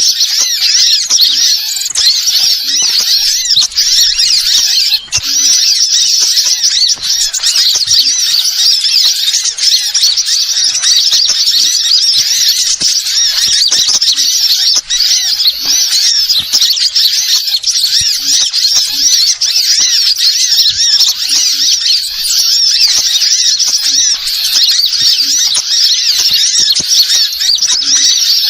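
Continuous dense, high-pitched chirping and twittering of small birds, many rapid notes overlapping without pause: a bird-lure (pikat) call recording.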